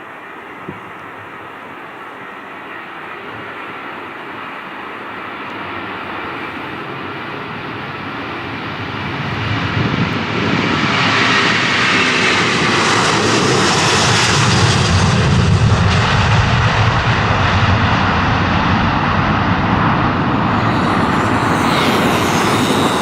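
Airliner passing by: engine noise builds gradually, grows much louder about two-fifths of the way in, is at its brightest and loudest around the middle, then stays loud as it moves away.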